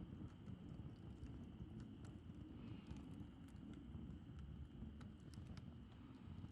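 Wood campfire burning faintly, with scattered sharp crackles and pops over a low steady rumble.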